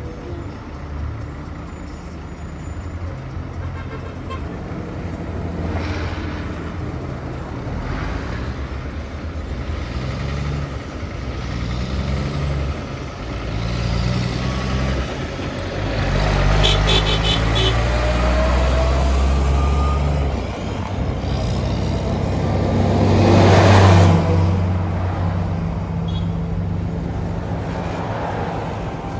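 Truck engine running on the road, its pitch stepping up and down through gear changes. It grows louder around the middle and peaks about 24 seconds in before easing off.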